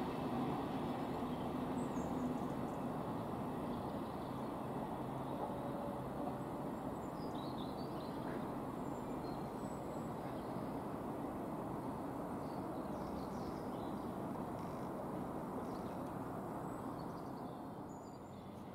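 Thameslink Class 700 electric multiple unit running past and away, a steady rumble that slowly grows fainter. A few faint bird chirps come through about halfway.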